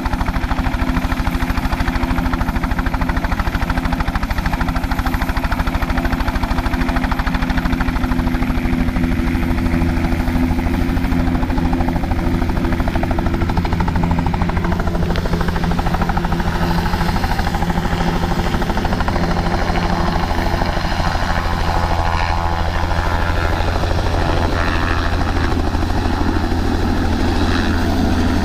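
An engine running steadily close by, with a fast, even pulsing and a steady low hum.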